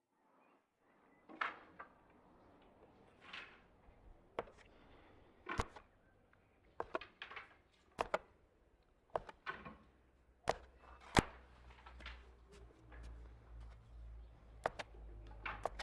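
Khingalsh dough being rolled out with a rolling pin on a wooden board: irregular soft swishing strokes and sharp wooden knocks and clicks. A low hum comes in about two-thirds of the way through.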